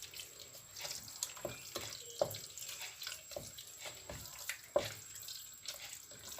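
A spoon stirring a watery tomato meat sauce in a pot: liquid sloshing, with irregular knocks of the spoon against the pot.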